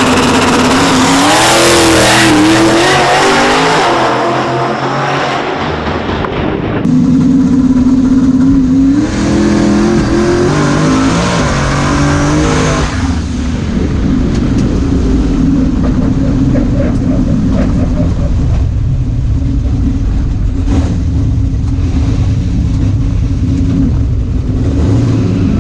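Turbocharged street-race truck engine running hard, loud, its pitch rising and shifting as it accelerates. The sound changes abruptly about a quarter of the way in and again about halfway, then holds at a steady drone.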